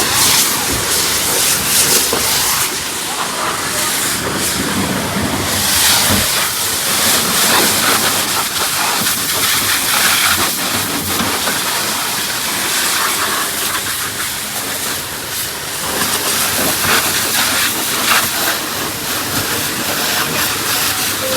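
Steady hiss of a water jet spraying onto a car being washed.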